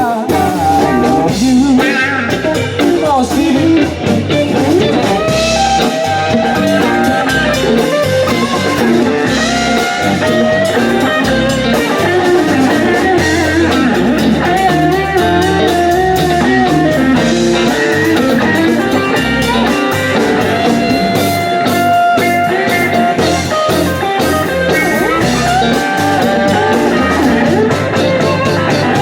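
Rock band playing a blues-rock number live: guitar with wavering held notes over a drum kit.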